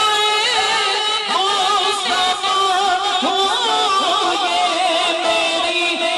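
Melodic devotional singing of a naat, with long, held, wavering notes and a few sliding pitches.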